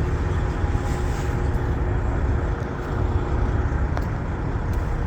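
Diesel truck engine running with a steady low rumble.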